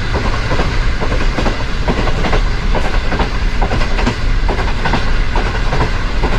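Moving train: wheels clattering over the track in irregular knocks, over a low, steady rumble.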